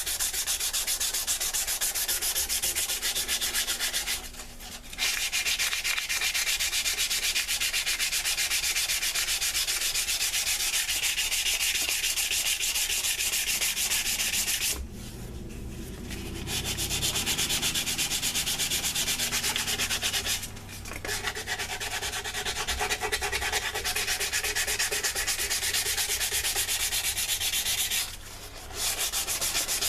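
Sandpaper rubbed by hand over a wooden knife handle in rapid back-and-forth strokes. It stops briefly four times, the longest pause about halfway through.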